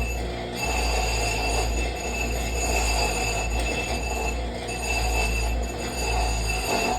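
Grinder working on a steel pin: a steady motor hum under a high metallic squeal that comes and goes as the steel is worked.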